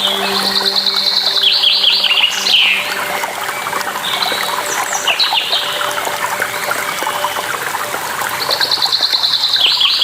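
A songbird singing a repeated phrase, a fast trill that ends in a few falling notes, three times, over a steady rush of water. A faint low steady hum runs underneath.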